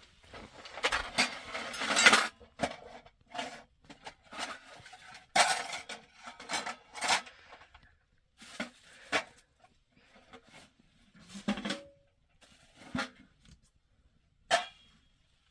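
Irregular knocks and clatters of hard objects being handled, coming thick and fast in the first half, then thinning out, with one sharp loud knock near the end.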